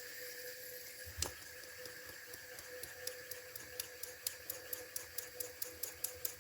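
Small electrically heated model steam engine (IND-X) starting to run on its first steam, its strokes ticking evenly and coming faster, to about three a second, from about three and a half seconds in. There is one sharp click about a second in, over a faint steady hum.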